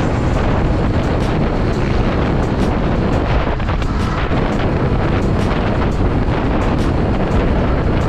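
Wind rushing over the microphone of a riding motorcycle, a loud, steady low rumble of wind and road noise with no engine note standing out.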